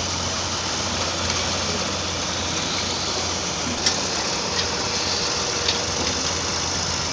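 Heavy machinery engine running steadily at a constant pitch, with a few short sharp knocks near the middle.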